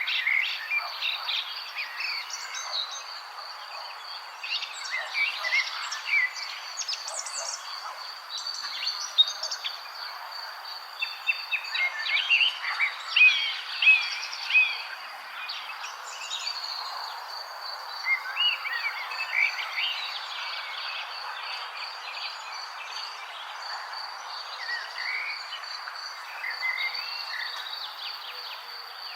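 Many small birds chirping and warbling in short, overlapping calls, busiest in the middle, over a steady high-pitched trill and a soft background hiss.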